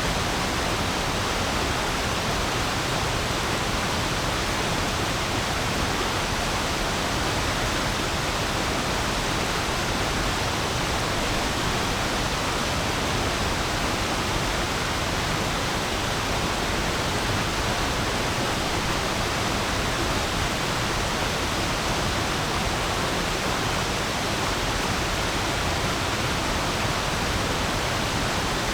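Stream water running over stones, a steady, even rushing babble.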